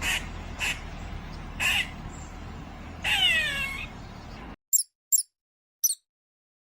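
Animal calls over background noise: three short calls, then a longer one falling in pitch about three seconds in. After an abrupt cut, a few very short, high chirps sound singly and in pairs.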